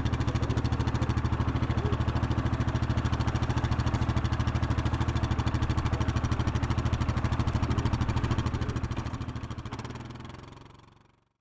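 An engine running steadily with a rapid, even pulse, fading out over the last two seconds.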